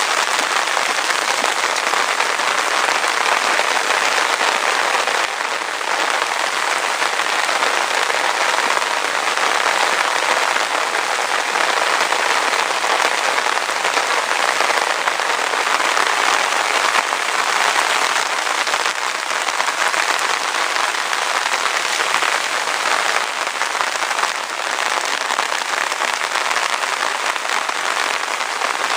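Rain falling steadily, a continuous even hiss of drops without let-up.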